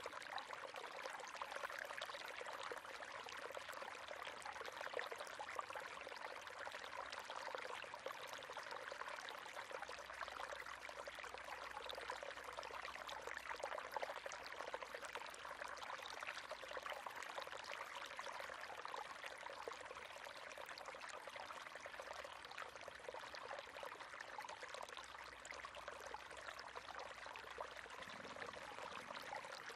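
River water running steadily over rocks, a continuous splashing and trickling rush.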